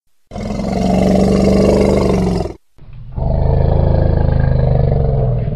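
A large wild animal's call: two long, low calls with a short break between them, the second one longer.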